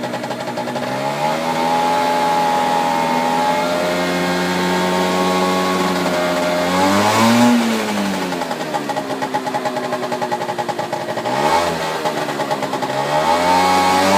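Peugeot SC50 scooter's 50 cc single-cylinder two-stroke engine running while it warms up after a cold start. It settles at a steady fast idle, then gets three short blips of the throttle in the second half, each rising and dropping straight back.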